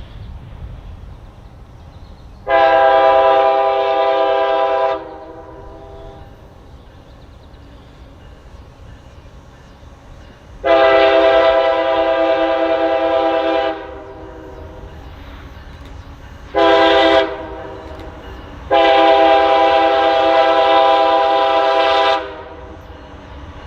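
Locomotive air horn sounding the grade-crossing signal: two long blasts, a short one, then a final long blast, each a steady multi-note chord, over a low rumble from the approaching train.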